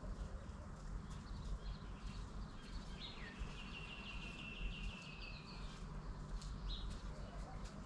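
A songbird singing a fast trill, a rapid run of repeated notes lasting about two and a half seconds from around three seconds in, with a few short chirps after it, over steady low rumbling background noise.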